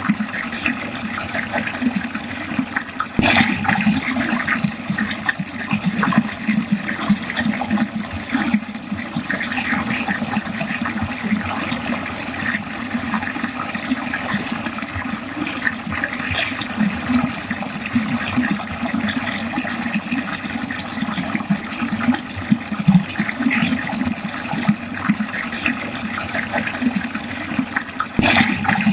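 Water running steadily down a drain in a continuous flickering rush, with a sharp click about three seconds in and another near the end.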